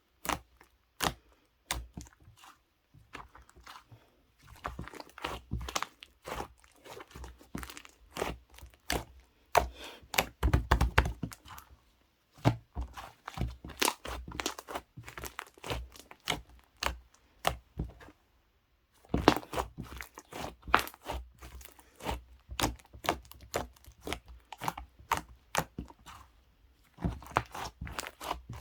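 White milk-coloured slime being squeezed, poked and stretched by hand, giving dense runs of small clicks, pops and crackles. The sound stops briefly about twelve seconds in and again around eighteen seconds in.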